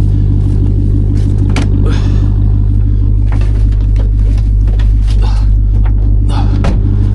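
Supercharged 6.2-litre V8 of a Ram TRX pickup running with a steady low drone, with a few short clicks over it.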